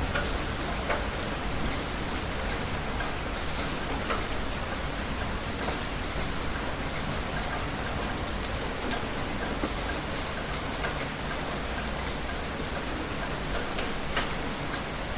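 Heavy rain falling steadily, with scattered sharper drop hits now and then.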